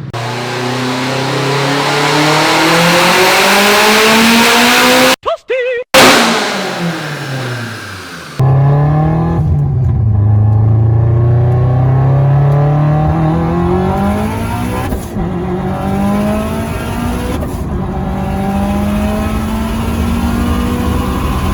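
Turbocharged Subaru STI flat-four engine at wide-open throttle on a chassis dyno, revs climbing steadily through a pull, then the throttle lifts and the revs fall away. After an abrupt change about 8 seconds in, a second long pull climbs slowly through the rev range.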